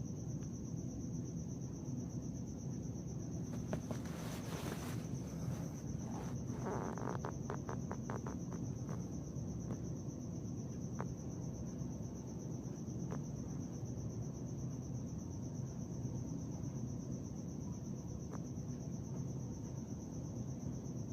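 A cricket trilling steadily on one high pitch over a low, steady background hum. A few faint clicks come about four seconds in, then a quick run of ticks a couple of seconds later.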